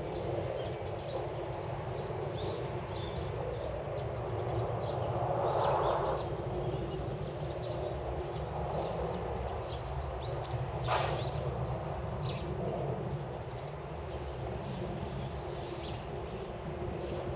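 Small birds chirping with many short, high calls over a steady low background rumble. One sharp, louder sound stands out about eleven seconds in.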